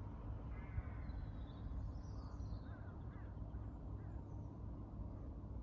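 Birds chirping and calling, a string of short up-and-down chirps, over a steady low rumble.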